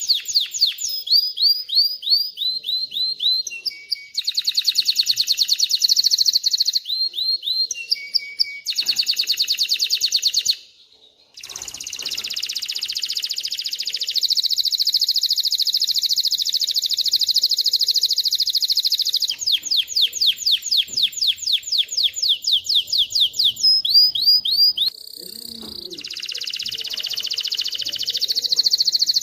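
Male domestic canary singing a long song of rapid, repeated trills and falling chip notes, high-pitched and loud, with a brief pause about a third of the way through and a long rolling trill after it.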